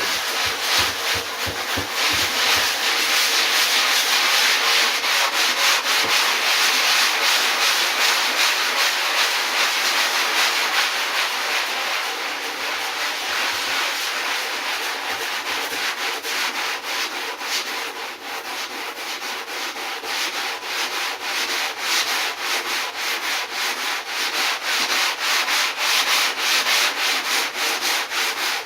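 Sandpaper being rubbed back and forth over cured pour-in foam on a surfboard repair, in a steady stream of quick, rhythmic strokes, to take the foam fill down flush with the board.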